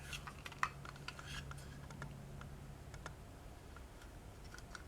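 Faint, scattered light clicks and taps from a small toy Land Rover model being handled, with one sharper click about half a second in.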